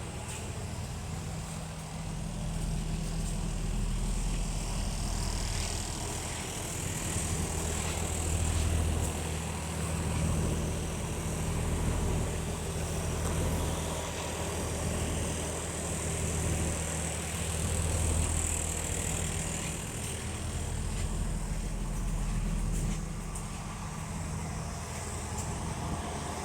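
Cummins 8.3-litre inline-six diesel of a 2007 Blue Bird All American school bus running steadily, a low hum that swells and eases slightly in level.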